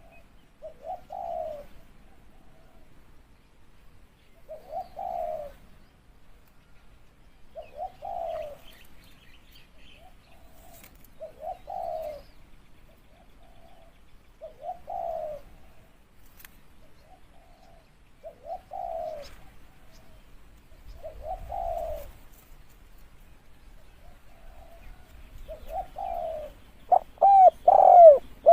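Spotted dove cooing: a short phrase repeated about every three to four seconds, eight times, with a much louder call near the end.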